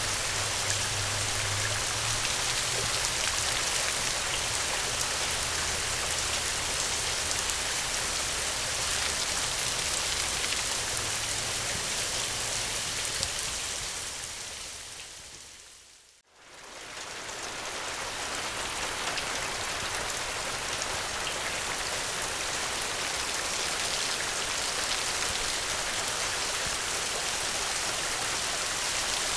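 Steady rain hiss with a faint low hum underneath. About halfway through it fades smoothly down to near silence and swells straight back up, as at the seam of a looped recording.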